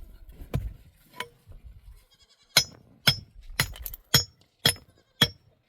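Steady, evenly paced strikes of a metal tool, about two a second with a sharp ringing clink, starting about two and a half seconds in after a few scattered knocks.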